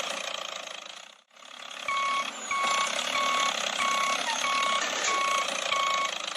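Vehicle reversing alarm beeping steadily, about one and a half beeps a second, over a steady engine-like hum. The hum cuts out briefly just over a second in, and the beeping starts about two seconds in.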